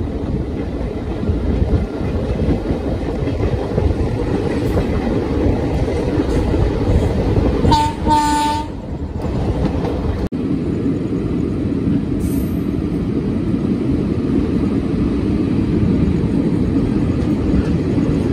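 Passenger train coach on the move: a steady rumble of wheels on track. About eight seconds in, a train horn blows once for about a second.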